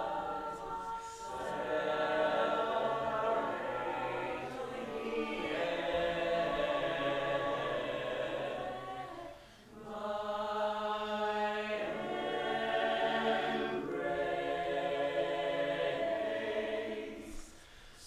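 A group of voices singing together in long held chords, in two long phrases with a short break about halfway and another near the end.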